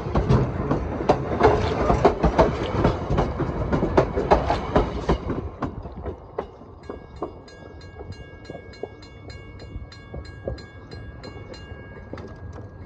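Railroad cars' wheels clattering over rail joints close by, a quick run of knocks that fades about five seconds in as the train moves off. A steady high ringing tone with regular ticks, about three a second, follows until near the end.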